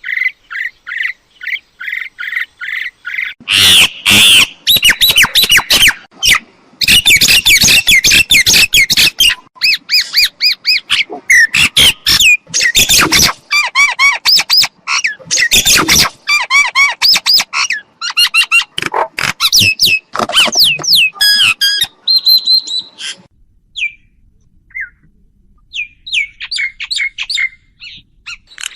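Myna calling: a quick run of repeated short notes, then a long loud spell of harsh squawks and chatter mixed with whistled glides. It thins out to a few scattered calls near the end.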